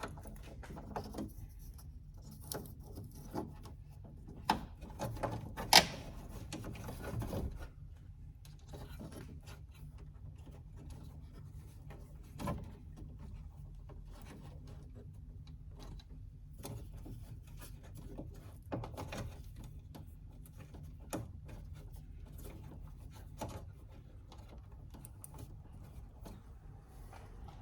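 Scattered clicks, taps and rattles of hands and tools working on car door parts, with a sharp click about six seconds in, over a low steady hum.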